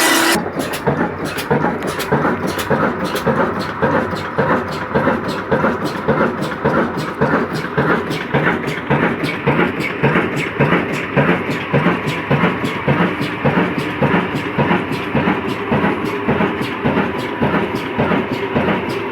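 Kala Desi 22 hp Ruston-type single-cylinder diesel engine running with a steady, even beat. A rising whine cuts off about half a second in.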